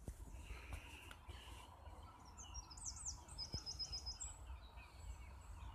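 A bird singing a short high phrase in the middle: a few quick sweeping notes, then a run of about six rapid repeated notes and one higher held note. Under it is a low steady rumble of wind on the microphone.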